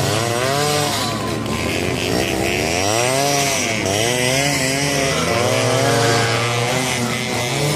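Yamaha RX two-stroke single-cylinder motorcycle engines revving up and down repeatedly, about five rising-and-falling revs, over a steady low engine note.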